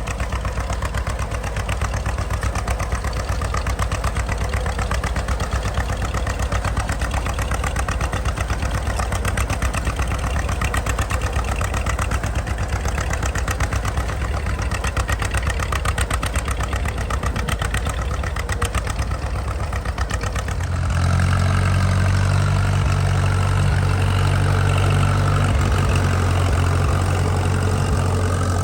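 Old farm tractor engine running with a fast, even firing beat. Near the end the sound shifts to a deeper, smoother engine drone.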